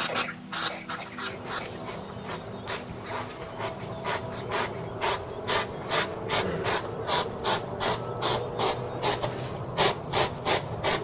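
An animal making a long run of short, harsh, breathy strokes, about two a second and getting a little louder toward the end, over steady background music.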